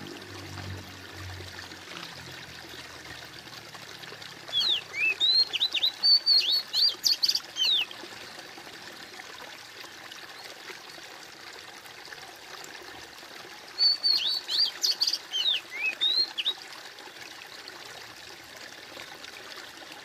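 Steady trickling water of a saltwater aquarium, with two bursts of a songbird's rapid whistled chirping song, about five seconds in and again about fourteen seconds in.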